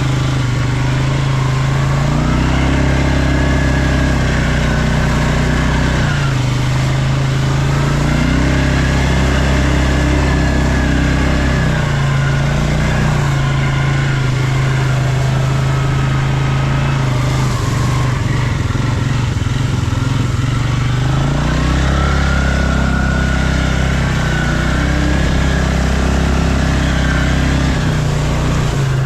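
ATV engine running loud and close. It revs up and holds for a few seconds, then drops back, about three times over.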